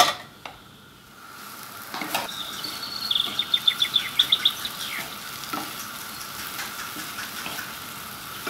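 Sliced bitter gourd with egg and shrimp sizzling in a frying pan over a high flame while a wooden spatula stirs it. The sizzle picks up about two seconds in, with a quick run of high ticks a little later.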